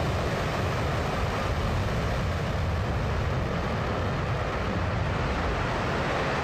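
Blue Origin New Shepard booster's BE-3 hydrogen-fuelled rocket engine firing in its landing burn: a steady, deep rushing noise.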